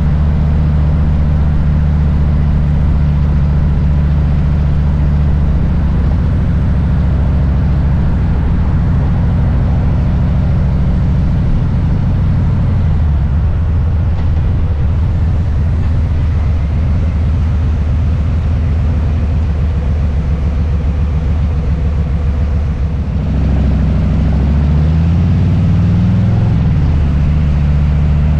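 Harley-Davidson Low Rider S's Milwaukee-Eight V-twin engine running with a steady low rumble, mostly at low revs. Near the end it revs up and then eases back down.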